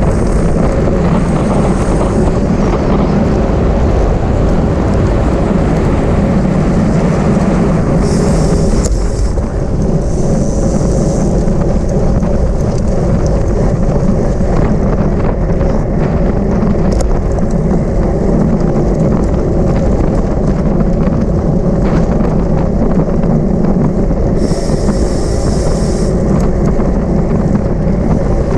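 Steady wind rush on the microphone of a camera riding in a bicycle race. Brief high-pitched buzzes come through three times, about eight, ten and twenty-five seconds in.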